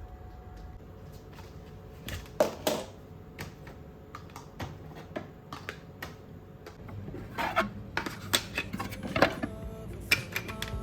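Irregular clicks, taps and knocks of hard household items, such as containers and lids, being handled and set down, growing busier in the last few seconds.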